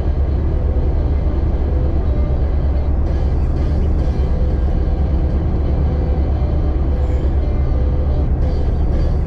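Steady low rumble of a 1999 Jeep XJ running along a trail, with music playing over it.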